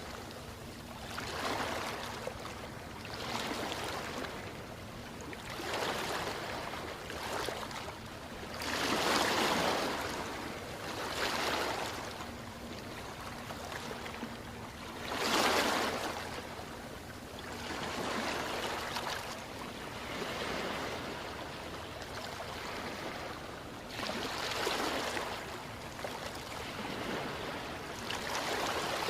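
Ocean waves washing in, the surf noise swelling and falling every few seconds, with bigger waves breaking about nine and fifteen seconds in.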